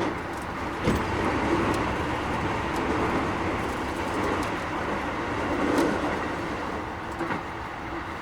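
Keikyu 1000 series train running at speed: a steady rumble of wheels on rail with a few sharp clacks, the loudest a little under a second in. The uploader finds this trainset a little noisier than other sets of the class.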